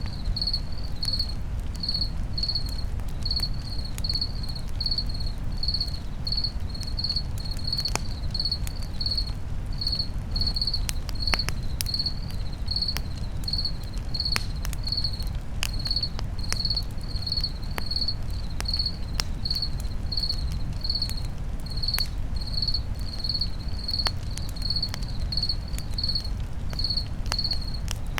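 Crickets chirping in a steady pulse, about two chirps a second, over a crackling campfire with scattered sharp pops and a low steady rumble.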